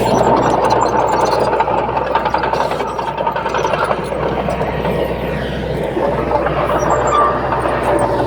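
Heavy diesel earth-moving machinery running steadily, with a faint drawn-out whine that sinks slightly in pitch over the second half.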